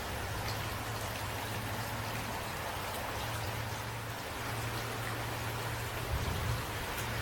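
Steady rain falling, with faint scattered drop ticks and a low, steady rumble underneath.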